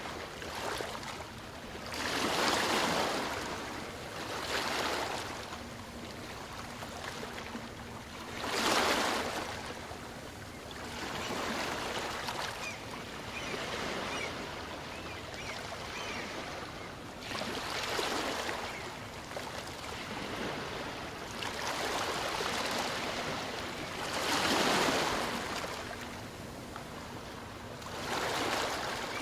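Calm sea waves washing onto a beach, a steady hiss that swells into a soft surge every few seconds and ebbs away between them.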